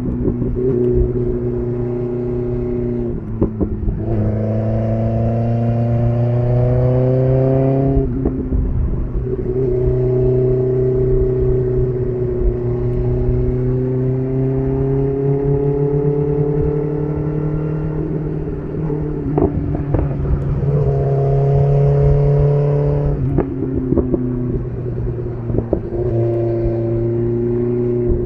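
BMW S1000RR inline-four running through an SC Project CR-T titanium exhaust under riding load. The engine note climbs slowly and steps to a new pitch at several gear changes.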